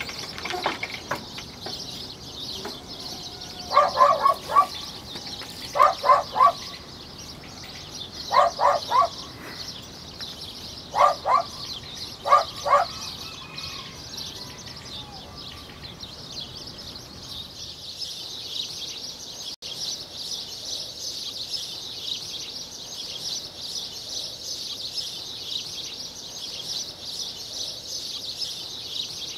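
Bird calls in short clusters of two or three quick notes, five clusters over about nine seconds, over a steady high-pitched hiss.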